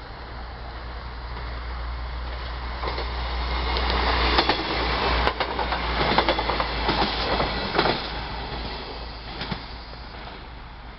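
PESA 218M diesel multiple unit SA134-022 passing through without stopping: a low diesel rumble under rapid clickety-clack of wheels over rail joints. It grows louder, is loudest about four to eight seconds in, then fades away.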